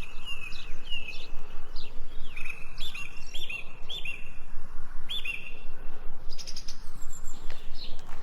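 Songbirds chirping: many repeated short chirps, several birds overlapping, over a steady low background noise.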